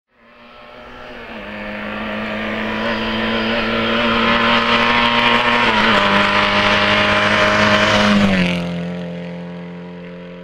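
Lada 2107 approaching under power, its engine note holding a steady pitch as it grows steadily louder. About eight seconds in it passes by with a drop in pitch and fades away.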